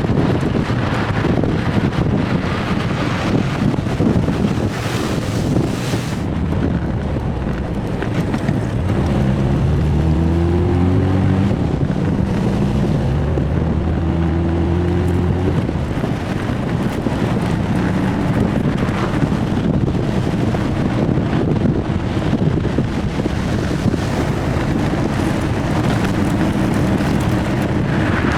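1966 Triumph Spitfire's 1147cc four-cylinder engine running under way, with steady wind rush on the microphone. In the middle, for several seconds, the engine note stands out clearly and climbs slightly in pitch.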